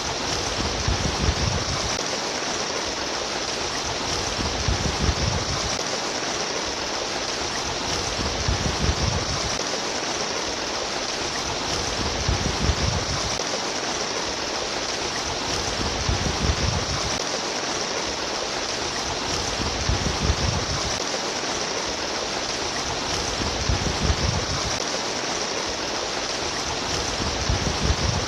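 Water running and trickling steadily, with a low rumbling swell about every four seconds.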